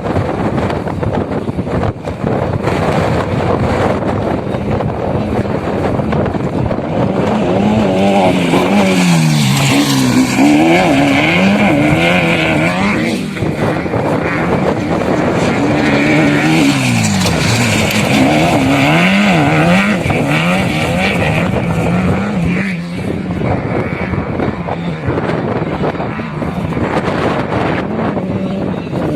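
Off-road vehicle engine running hard, its revs rising and falling in quick repeated swings for stretches in the middle, over a steady noise of driving.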